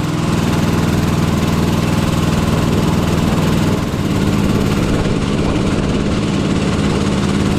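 An engine running steadily and loudly, with a dense hiss over it. Its note shifts slightly about four seconds in.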